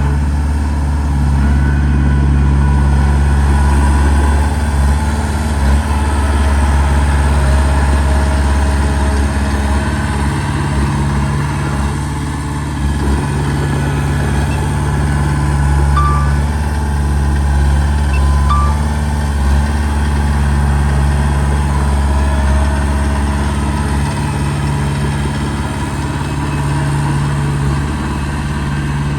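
Heavy diesel engine of earthmoving machinery running steadily under load, its low drone swelling and easing slightly. Two short high beeps sound about two and a half seconds apart past the middle.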